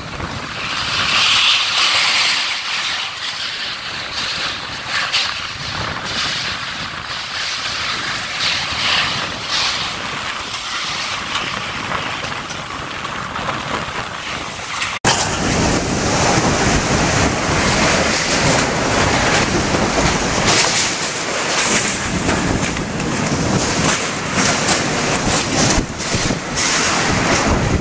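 Strong storm wind gusting and buffeting the microphone. About halfway through the sound cuts abruptly to a louder, fuller rush of wind.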